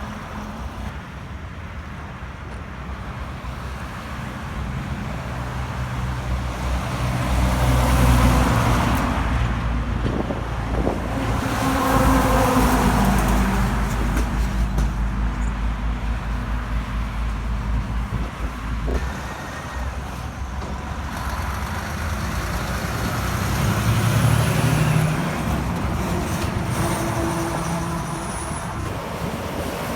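Heavy trucks and other traffic passing on a highway: engine drone and tyre noise swell and fade as several vehicles go by, loudest about 8, 12 and 24 seconds in.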